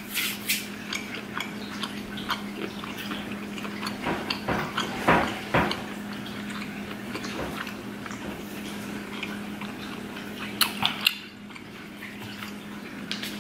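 Close-miked chewing of boiled octopus tentacle: wet mouth clicks and smacks, with a louder cluster about four to six seconds in and another near eleven seconds, over a steady low hum.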